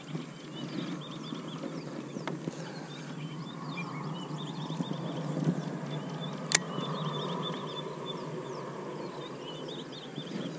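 Birds chirping in quick short calls over a steady outdoor background noise, with one sharp click about six and a half seconds in.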